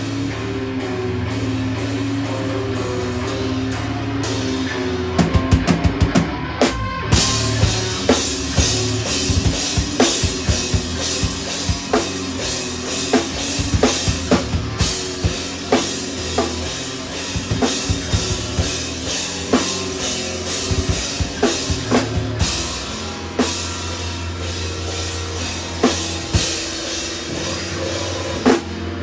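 Live instrumental rock played by a three-piece band: held low notes ring for the first few seconds, then the drum kit comes in about five seconds in with a quick fill and keeps a steady beat with cymbals over the band.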